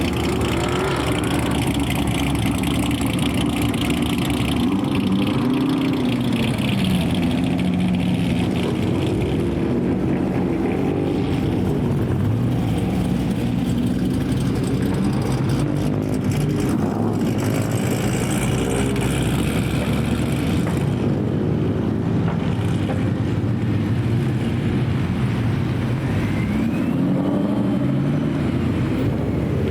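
Car engines running, their pitch rising and falling several times as cars rev and move through the meet.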